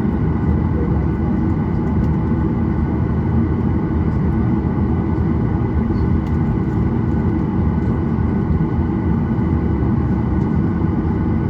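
Inside the cabin of a Boeing 737-800, its CFM56-7B jet engines and the airflow make a steady, loud rumble with a few faint high whining tones over it.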